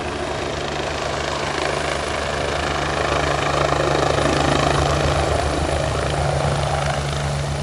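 Helicopter running close by, with the steady chop of its rotor blades and the whine of its turbine, growing slightly louder through the middle.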